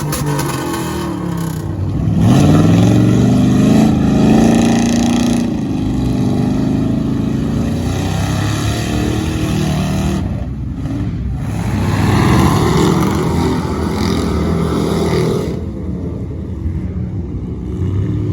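Truck engine revving hard under load. Its pitch climbs about two seconds in, eases off around ten seconds, surges again, then drops back near the end.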